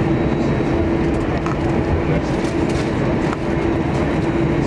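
Airliner cabin noise on the ground: steady jet-engine noise and rumble from the wheels, with a steady hum.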